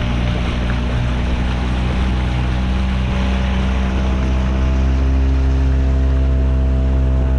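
A boat's motor running steadily at cruising speed, with the rush of water and wind around it.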